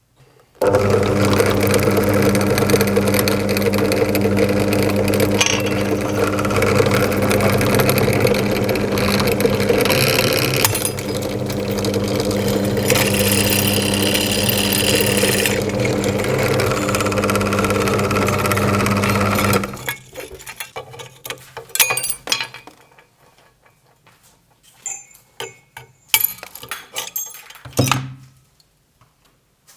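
An electric drill runs steadily at full speed for about twenty seconds, with grinding and scraping against the object it is working on, then stops abruptly. Scattered clinks and small knocks follow, with one louder knock near the end.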